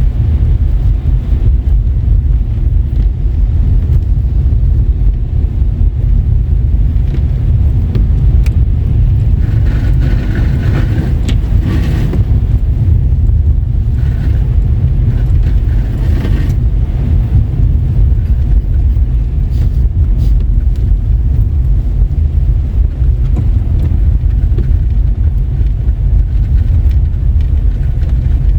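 Car driving on a wet, slushy road: a steady low rumble of tyres and engine. A louder hiss rises briefly about ten seconds in and again near sixteen seconds.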